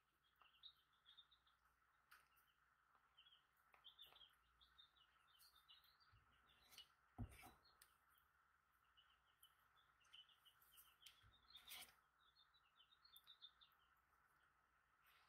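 Faint chirping of a small bird, repeating throughout, over a quiet room, with a few soft clicks as a plastic spatula packs ointment into a small jar, the strongest about seven seconds in and again near twelve.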